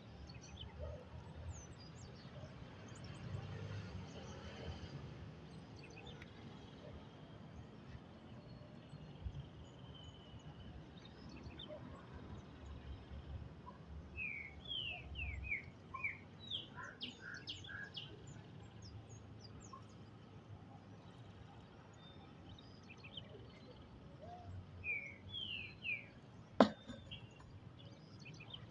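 Wild birds chirping in quick series of short, high calls, once about halfway through and again near the end, over a low outdoor rumble. A single sharp click just before the end.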